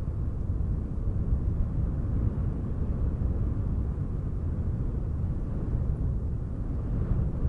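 Wind rumbling steadily against a microphone, a low gusty roar with no distinct events.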